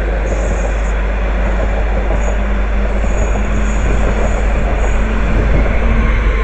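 A train running through the station, with a steady rumble from the wheels and track and faint intermittent high squeaks.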